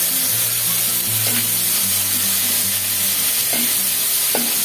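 Ground spice paste sizzling in hot oil in an aluminium kadai, stirred with a metal spatula. The spatula scrapes and knocks against the pan a few times.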